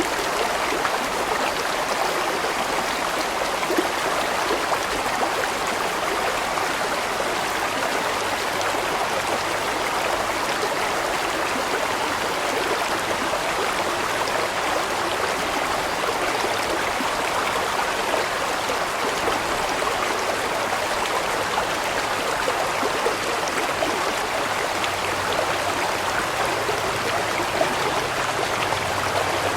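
Large mountain stream flowing over rocks: a steady, unbroken rush of water with small splashes and gurgles.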